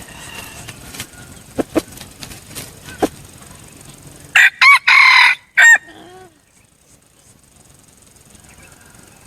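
Red junglefowl cock (a tame decoy bird) crowing once, a short broken crow of a few syllables with a falling tail, about four seconds in. Before it, a few scattered sharp clicks.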